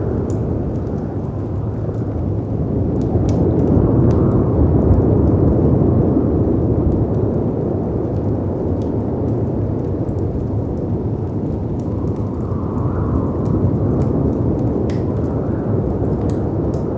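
Layered storm ambience: a deep, steady rumble of wind and sea surf that swells for a few seconds about three seconds in and again briefly later, with a faint howl of wind above it and scattered small pops of a crackling wood fire.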